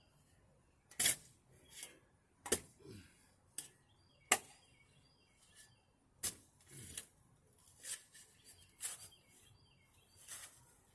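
Shovel digging into dirt: about eight short, sharp scrapes and strikes at irregular intervals, each a second or so apart.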